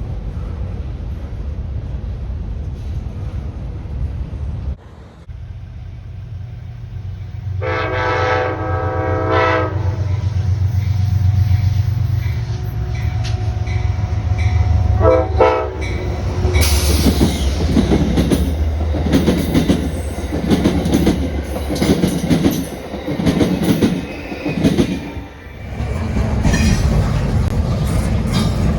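Diesel train coming through: the locomotive's engine rumbles, its horn sounds one long blast and then a short one, and then the train passes, wheels clattering over the rail joints in a steady rhythm.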